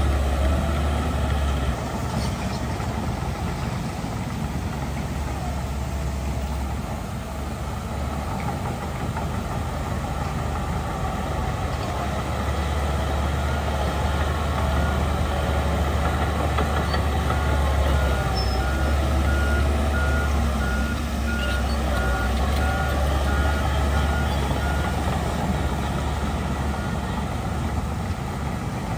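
Heavy diesel earth-moving machinery running steadily. A reverse alarm beeps repeatedly for several seconds in the second half.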